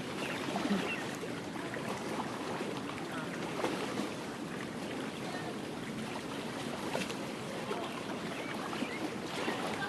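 Steady outdoor background noise, an even hiss with a few faint ticks and no clear single source.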